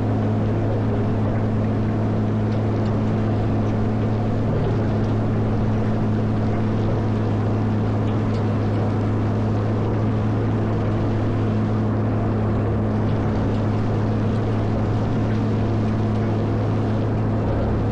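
Caterpillar 140M motor grader's diesel engine running at a steady speed, a constant low drone with no rise or fall.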